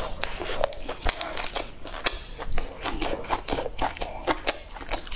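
Eating sounds close to the microphone: chewing and crunching, mixed with the crisp crackle of a fresh lettuce leaf being torn and handled, in a quick irregular string of crackles and clicks.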